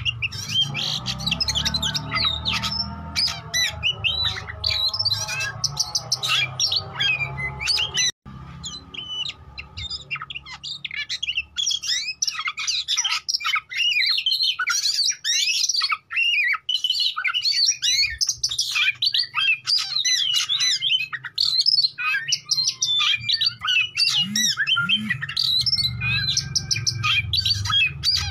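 Oriental magpie-robin (kacer) singing hard: a rapid, unbroken stream of varied whistled and chattering phrases mixed with harsh squawks, with a brief break about eight seconds in.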